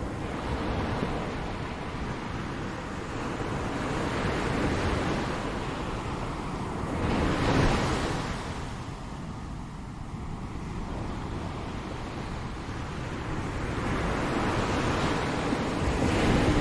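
Ocean waves breaking on a shore, a continuous rush of surf that swells as a wave crashes about halfway through and again near the end.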